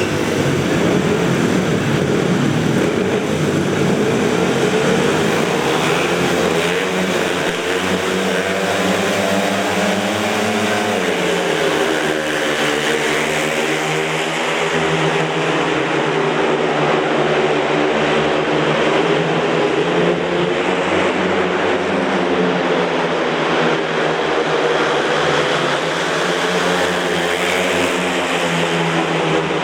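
Several speedway motorcycles, 500 cc single-cylinder methanol-fuelled engines, racing round the track. Their engine notes rise and fall as the riders open and shut the throttle through the bends and straights.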